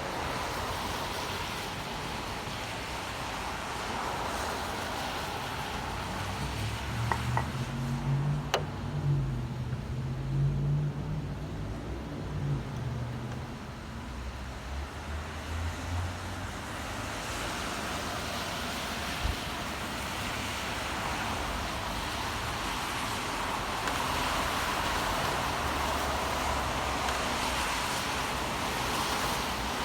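Steady rain and city street traffic. A vehicle's low engine rumble swells and fades between about a quarter and halfway through, with one sharp click near its start.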